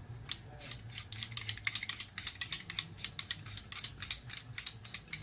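Rapid, irregular light metallic clicking and ticking, several clicks a second, from steel parts of an anti-blowup tool being handled and the bottom sub threaded onto the body.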